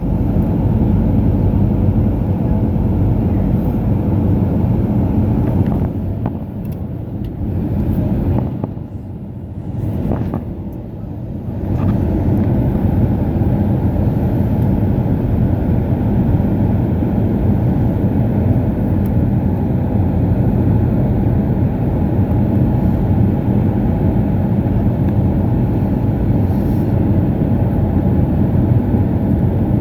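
Airbus A319 cabin noise in flight on the way in to land: a steady low rumble of engines and airflow. It drops back and wavers for a few seconds about six seconds in, then returns to its steady level.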